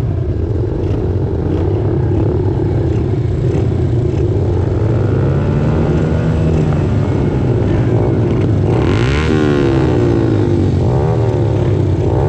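A pack of 90cc and 110cc pit bikes, small single-cylinder four-stroke engines, running together under throttle. Several engines rev up and down against each other in the second half.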